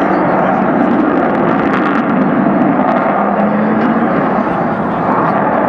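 Jet noise of an Avro Vulcan bomber's four Rolls-Royce Olympus turbojets in flight, a loud, steady rushing sound.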